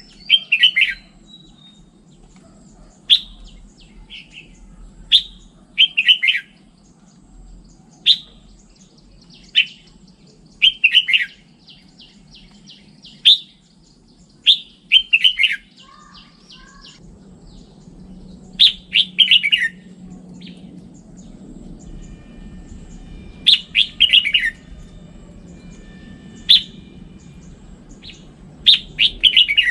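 Red-whiskered bulbul singing: short, bright warbled phrases repeated every one to three seconds.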